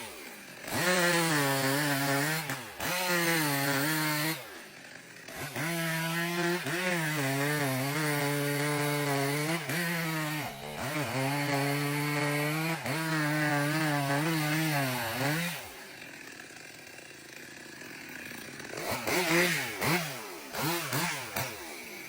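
Chainsaw running at high revs while cutting into a tree, its pitch sagging and recovering under load, with the throttle let off briefly several times. For a few seconds near the end it falls to a quieter, rougher sound, then revs up again in short bursts.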